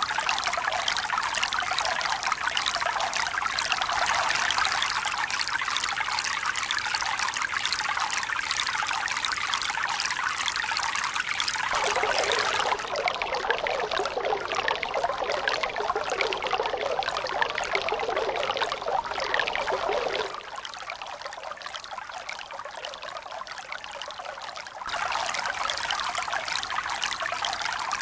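Running water, a steady trickling and pouring rush. It changes abruptly several times: it turns deeper about twelve seconds in, drops quieter about twenty seconds in, and comes back to its first sound about twenty-five seconds in.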